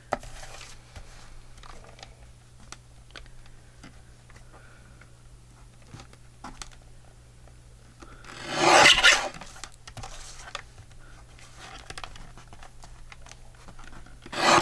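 Paper being cut with scissors: scattered faint snips, with one loud rasping rub of paper lasting about a second, roughly two-thirds of the way through. A steady low electrical hum sits underneath.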